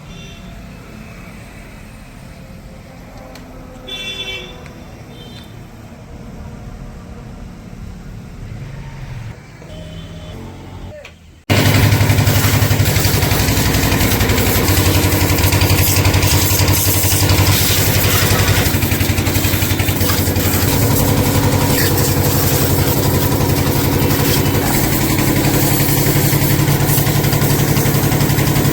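Background traffic with a short vehicle horn, then about halfway a loud, steady motor starts suddenly and keeps running evenly.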